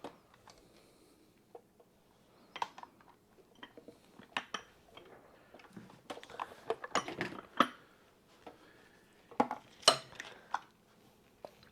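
Steel sockets and hand tools clinking against each other as someone rummages through them looking for the right size: irregular metallic clicks with short ringing, a busier cluster in the middle and a couple of louder clinks later on.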